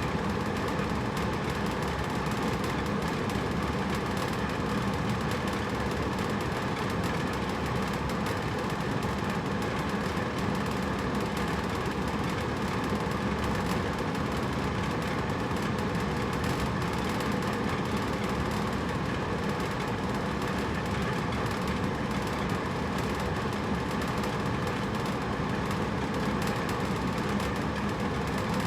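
Hotel room air conditioner running steadily: an even rush of blown air with a low motor hum underneath.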